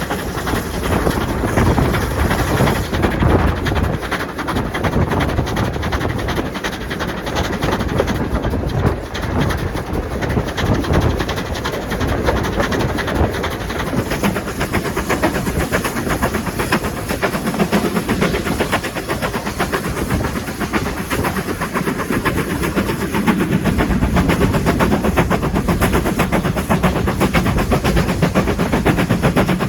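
A train running along the line, with a steady, rapid clattering throughout.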